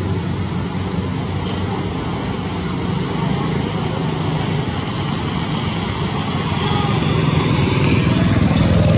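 A motor vehicle engine running steadily with a low hum, growing a little louder near the end.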